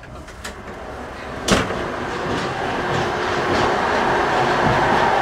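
Running noise of a moving passenger train, a rumble and rattle of wheels on rails, growing much louder about a second and a half in after a sharp clack, as the door to the gangway between carriages opens.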